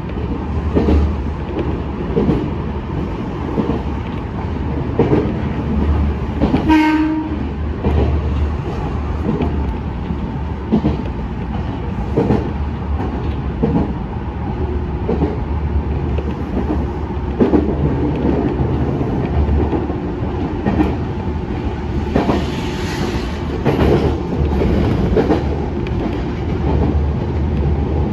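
Semboku Rapid Railway 5000 series electric commuter train running, heard from inside the front car: a steady low running hum with irregular clacks of the wheels over rail joints. About seven seconds in comes a brief pitched tone.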